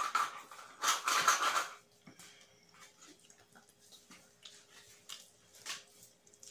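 Loud slurping sips of coffee from a mug, the last one about a second in, followed by soft chewing and small clicks of fingers picking up rice from a plate.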